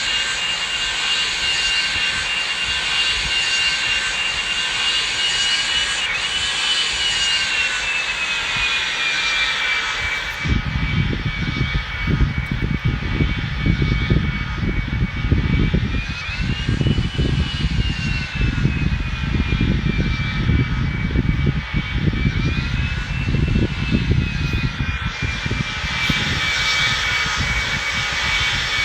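Boeing 737 jet engines running with a steady whine that sags and then rises in pitch a couple of times. A heavy, uneven low rumble joins about ten seconds in.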